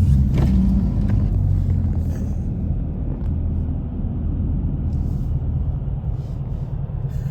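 Car engine running under way on a snowy road, a steady low drone that is a little louder in the first couple of seconds and then settles.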